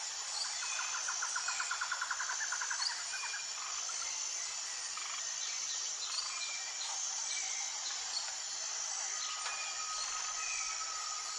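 Outdoor nature ambience: a steady high insect chorus with scattered bird chirps. A fast pulsed trill rises over it in the first few seconds, and a steady whistle-like tone comes in near the end.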